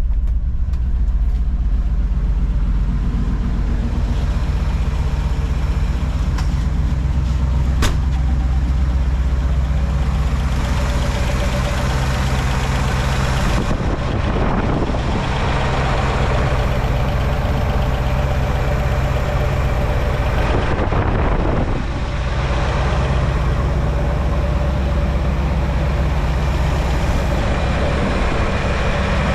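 The 1963½ Ford Galaxie 500's 390 V8 idling steadily right after a cold start on one pump of the throttle. A single faint click about eight seconds in.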